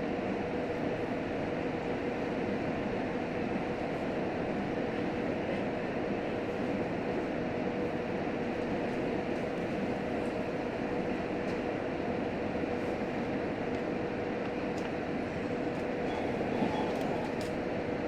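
JR Hokkaido H100 diesel-electric railcar running at speed, heard from inside the passenger cabin: an even rumble of wheels and engine with a steady hum.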